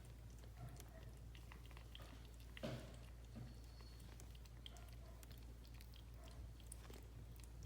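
Faint small wet clicks and smacks from a mother cat and her nine-day-old kittens, over a low steady hum, with one louder short rustle about two and a half seconds in.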